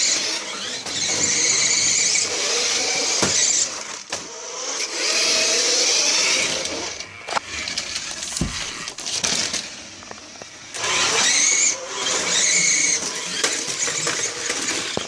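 Electric motors and gearboxes of toy remote-control cars whining in repeated bursts of a second or two as they are driven, with a few sharp knocks of the cars colliding.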